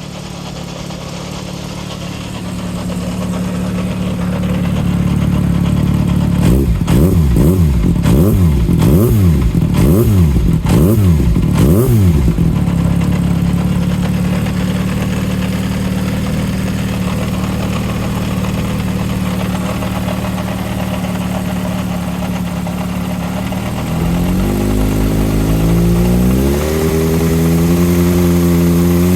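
Yamaha XJR400 four-cylinder engine idling, then blipped quickly about seven or eight times. It settles back to idle, and near the end it is raised slowly to a higher, held engine speed. The engine is being run to show an abnormal noise from its bottom end (crankcase), which the seller points to.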